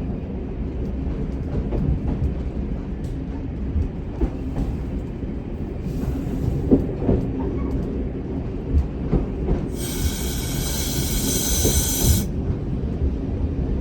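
Single-car diesel railcar running slowly, heard from the cab: a steady low rumble with scattered knocks from the wheels on the track. About ten seconds in, a loud high-pitched squeal lasts about two seconds and then cuts off.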